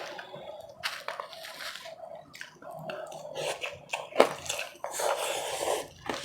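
Close-miked mouth biting and chewing powdery ice, with a run of sharp crunches, the loudest about four seconds in.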